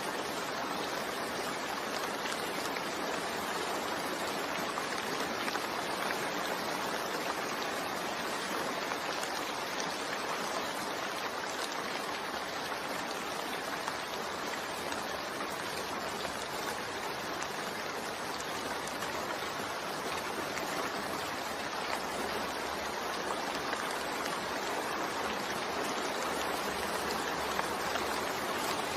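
Steady rain falling and splashing on hard surfaces, a constant even hiss.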